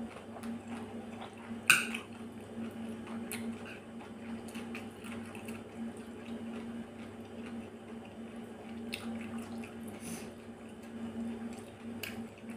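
Close-up wet chewing and mouth sounds of someone eating a salmon and shredded-carrot salad, with small clicks throughout and one sharp click a little under two seconds in, over a steady low hum.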